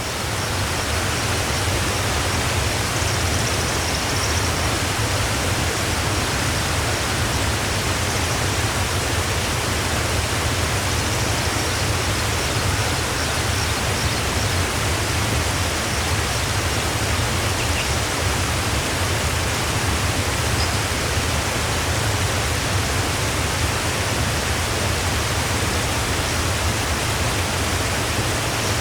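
A waterfall rushing steadily: an even wash of falling water with a strong low rumble underneath. Faint, brief bird chirps come through now and then.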